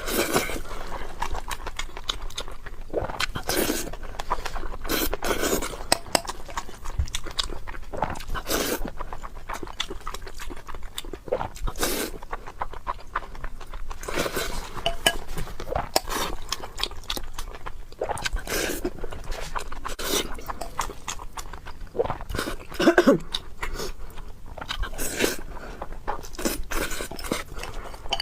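Close-up eating sounds: irregular chewing, smacking and crunching as a person eats rice with braised pork belly. A brief, louder pitched sound comes near the end.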